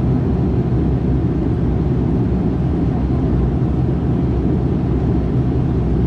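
Steady low drone of a De Havilland Canada Dash 8-400's Pratt & Whitney PW150A turboprop engines, heard from inside the cabin.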